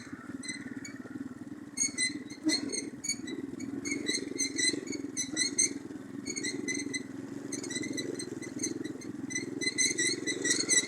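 Orion-100 moped's small single-cylinder engine running at low, steady speed while being ridden slowly over a rough forest track, with repeated short high-pitched chirps coming in clusters.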